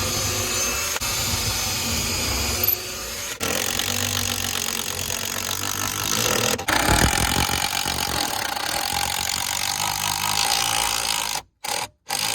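A power drill running in long steady runs with short pauses between them, then cutting off abruptly near the end.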